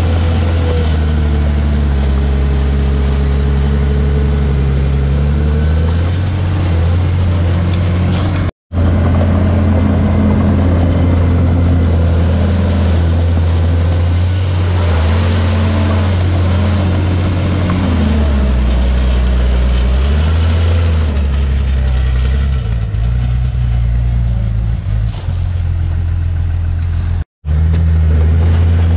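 Heavy diesel engine of earthmoving machinery running loud and steady, its pitch shifting up and down several times as it works. The sound drops out completely twice for a split second, about a third of the way in and near the end.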